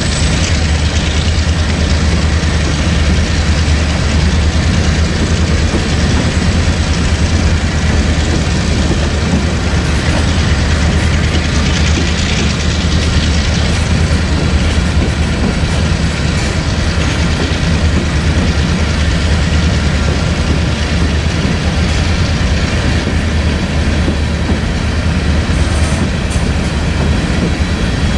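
Freight train of covered hopper cars rolling past close by: a loud, steady rumble of steel wheels on the rails, with light clicking of wheels over the track near the end.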